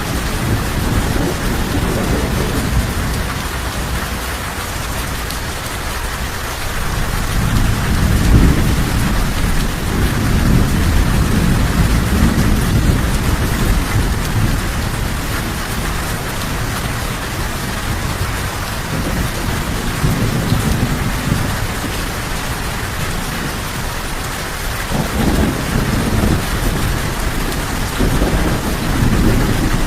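Steady heavy rain, with low rolling rumbles of thunder that swell and fade over several seconds, several times.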